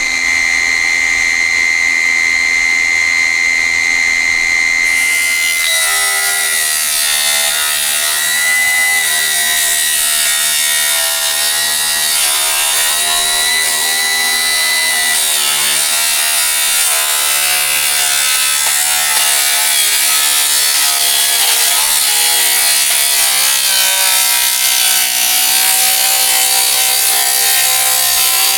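Electric power saw running: a steady high motor whine for the first five seconds or so, then the blade bites into the table and the pitch sags into a rough, steady cutting sound to the end.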